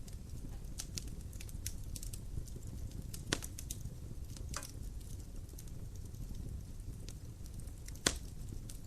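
Dry firewood burning in a fireplace: a steady low rumble of flame with scattered crackles and snapping pops, the loudest a sharp pop near the end.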